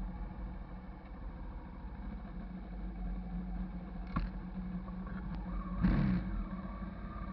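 Hyosung GV650 cruiser's V-twin engine running steadily, with a sharp click about four seconds in and a louder clunk about six seconds in.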